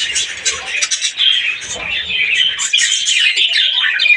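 A flock of budgerigars chattering, many high twittering and chirping calls overlapping without a break.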